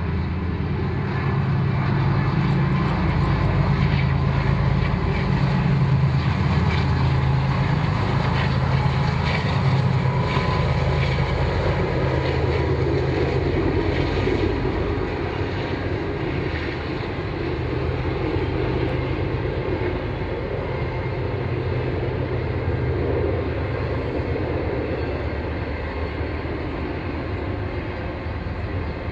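Railroad locomotives running, a steady low engine drone that pulses and shifts in strength throughout.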